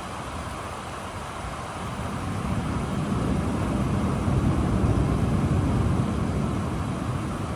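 Steady rain with a low rumble of thunder that swells from about two seconds in, peaks near the middle and eases off toward the end.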